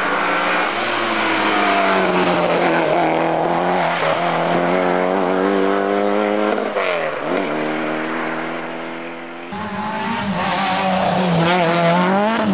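Rally car engines working hard on a loose, muddy stage. The first car revs at high rpm, its pitch dropping sharply and climbing again about seven seconds in as the driver lifts and shifts. After a sudden cut, a second car revs with quick rises and falls in pitch, with some tire scrabble and skidding.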